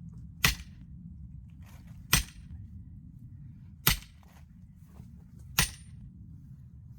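Axe striking a knotty, not fully dried oak log that will not split easily: four sharp blows, evenly spaced about every second and a half to two seconds.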